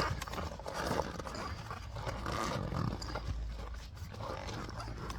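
Rubber tire and inner tube being handled and worked onto a wheel rim: irregular rubbing and scuffing with a few light knocks.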